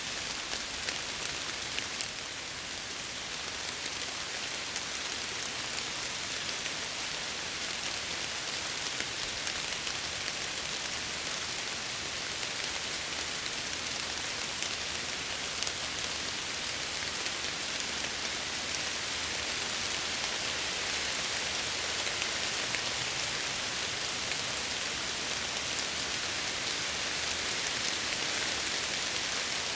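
Steady rain falling and pattering against window glass, a dense even hiss with many small drop ticks, swelling slightly toward the end.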